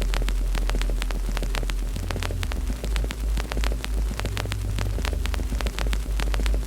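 Wood fire crackling, with many quick sharp pops over a steady low rumble.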